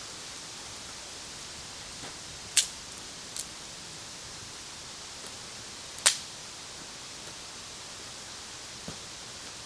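Two loud, sharp snaps of dry wood about three and a half seconds apart, with a few fainter ticks between, over a steady outdoor hiss.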